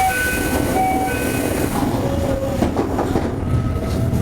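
Toei 5300 series electric train running, heard from inside the car: a steady rumble of wheels on rail, with short high tones that come and go.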